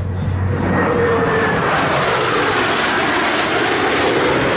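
Blue Angels F/A-18 Hornet jet flying past. A loud jet noise swells about half a second in and holds, with a whine that slowly falls in pitch as the aircraft passes.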